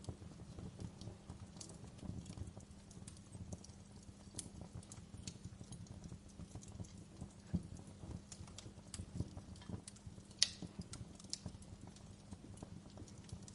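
Wood fire crackling, with irregular small pops and snaps over a low rumble of burning; one sharper pop about ten seconds in.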